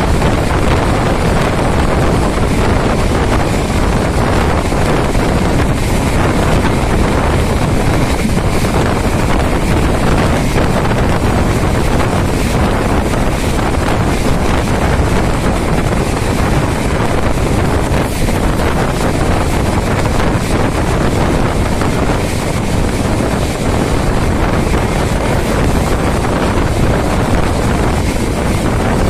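Steady rush of a moving passenger train heard from on board, with wind buffeting the microphone at an open window or door.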